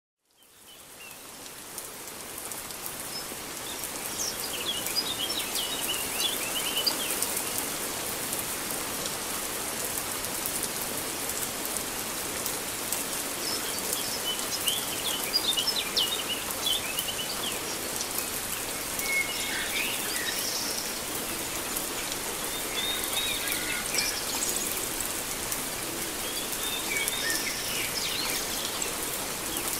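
Heavy monsoon rain falling steadily on paving and foliage, a dense even hiss that fades in over the first few seconds. Birds chirp now and then over the rain, in short clusters.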